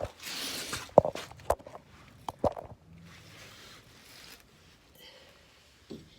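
Metal brake parts being handled and test-fitted: a short rasping scrape, then a few sharp clicks and knocks, then fainter scraping.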